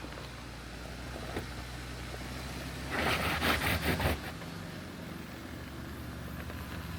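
Jeep Gladiator running steadily on the move, a low even engine drone. About three seconds in, a roughly one-second burst of quick rattling noise rises over it and is the loudest sound.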